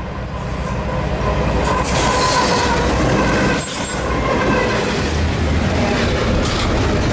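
A Norfolk Southern diesel locomotive passes close at the head of a double-stack container train, followed by the rumble of the stack cars' wheels on the rails. The sound builds over the first two seconds as the locomotive draws level, then holds steady.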